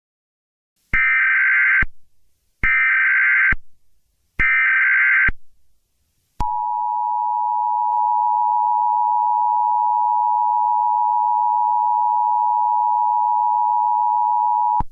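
Emergency Alert System SAME header: three one-second bursts of screechy digital data tones, followed by the steady two-tone EAS attention signal held for about eight seconds.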